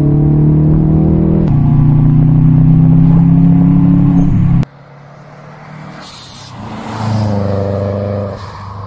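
Subaru WRX's turbocharged EJ255 flat-four with an HKS 3-inch turboback exhaust, accelerating with the revs rising, heard inside the cabin. After a sudden cut about four and a half seconds in, the car is heard from the roadside, growing louder to a peak around seven to eight seconds in and then fading.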